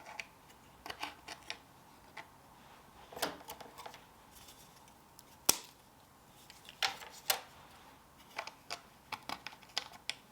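Scattered light clicks and taps of tableware and decorations being handled and set down on a table, with one sharp click about five and a half seconds in.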